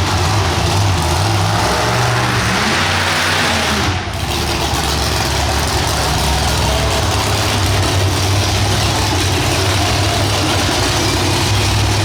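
Monster truck engine running loudly and steadily, with a brief drop about four seconds in.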